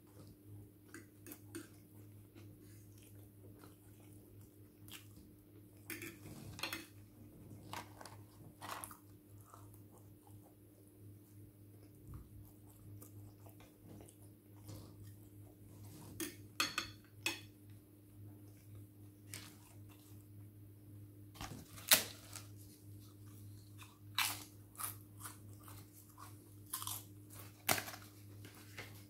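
A person chewing and crunching takeaway food such as chips and fried chicken close to the microphone, with scattered short crunches and clicks; the sharpest click comes a little over 20 seconds in. A steady low hum runs underneath.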